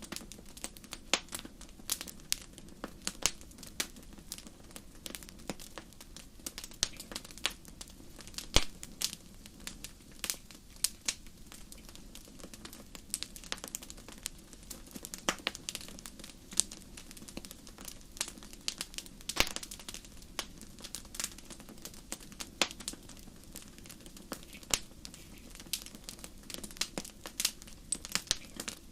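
Wood campfire burning: irregular crackling and snapping, several pops a second with a few louder ones, over a low steady rush.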